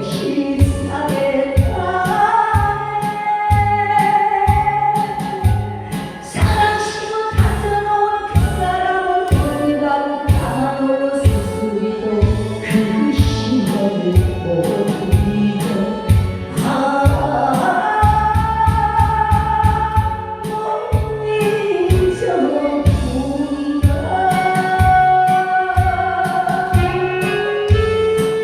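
A song sung live over band accompaniment with a steady drum beat.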